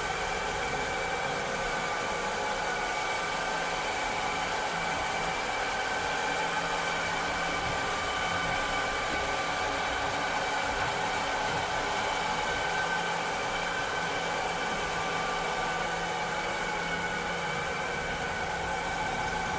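Robot vacuum cleaner running steadily: an even rushing noise with several steady whining tones that waver slightly.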